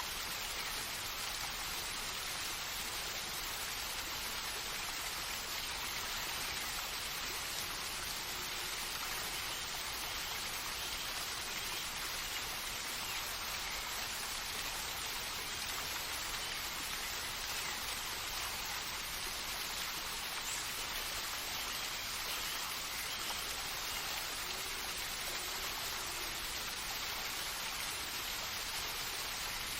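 Steady rainfall: an even, unbroken hiss of rain with no pauses.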